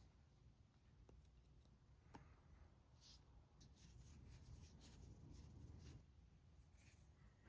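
Near silence: quiet room tone with a low hum and a few faint, scattered clicks and soft scrapes.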